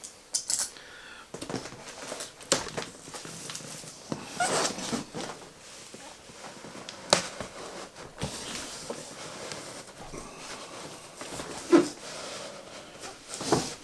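A large cardboard box being handled and cut open: scattered knocks, scrapes and rustles, with a couple of short squeaks near the end.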